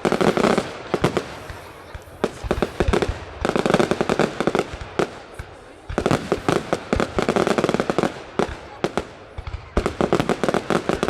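Fireworks display going off in volleys of rapid cracks and bangs, each cluster lasting a second or two, with short lulls between.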